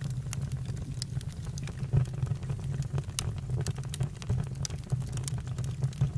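Campfire crackling: irregular sharp pops and snaps over a steady low rumble, with a louder pop about two seconds in.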